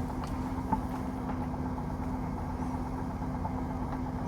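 Car engine idling, heard as a steady low hum with one constant tone. There is a faint click about three-quarters of a second in.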